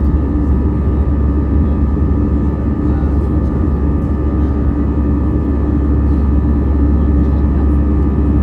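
Steady engine drone and rumble inside the cabin of an Airbus A320-214 with CFM56 turbofans: a deep low rumble with a few steady hum tones above it, holding an even level throughout.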